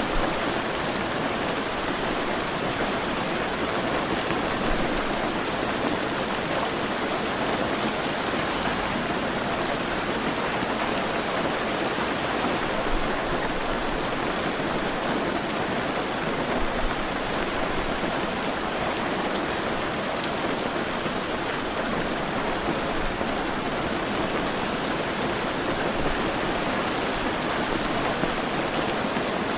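Steady heavy rain falling, a dense, unbroken hiss of drops.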